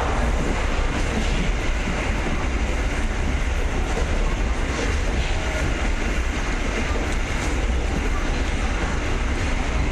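Moving passenger train heard from inside the carriage: a steady low rumble under an even hiss.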